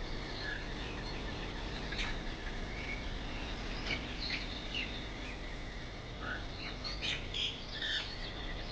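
Birds chirping and calling in short, scattered notes over a steady background hiss, busier in the second half.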